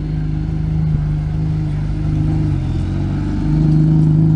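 Car engine running close by at a steady idle, its pitch dipping slightly and then rising and getting louder about three and a half seconds in, as with a light blip of the throttle.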